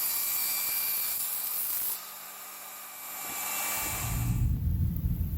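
Power saw cutting wood: a steady hiss that drops away about two seconds in and builds again, giving way to a low rumble near the end.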